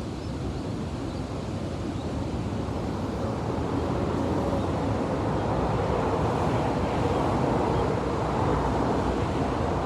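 Ocean surf breaking on a beach, with wind rumbling on the microphone. The wash of the waves grows louder a few seconds in and holds.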